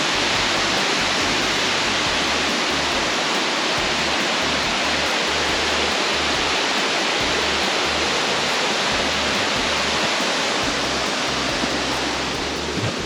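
Waterfall's steady rush of falling water, easing slightly near the end.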